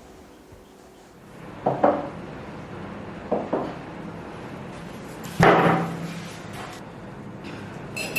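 Three knocks of objects being handled or set down, about two, three and a half and five and a half seconds in, the last the loudest, then a light clink near the end.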